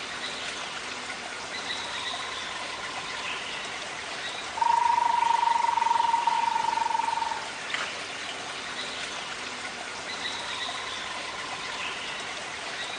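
Rainforest ambience: a steady wash of running water, with a long, even, whistle-like animal call held for about three seconds near the middle and fainter calls like it before and after.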